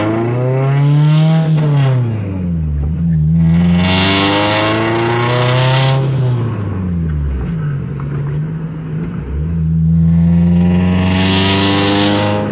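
Toyota 2AR 2.5-litre four-cylinder in a swapped RAV4 pulling hard through the gears, heard loud from inside the cabin: the revs climb and drop back twice, then climb again near the end. The exhaust runs through a header and a resonator with no muffler yet.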